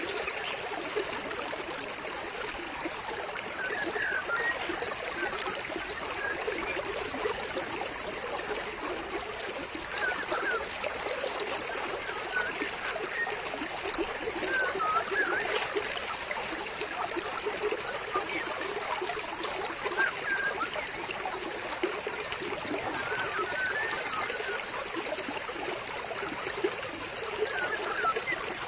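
Stream water trickling and flowing steadily, with occasional short bird chirps every few seconds.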